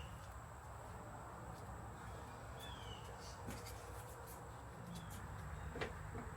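Faint, quiet background with a short high chirp that falls in pitch, repeated about every three seconds, like a small bird calling, over a low rumble.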